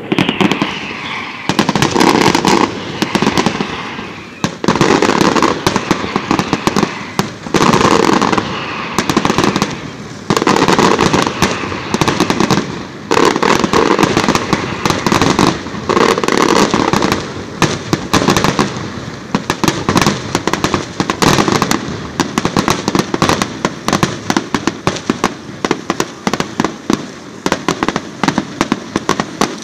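Aerial fireworks shells bursting in a dense, continuous barrage of booms and crackles that overlap with no pause, swelling in loudness every couple of seconds.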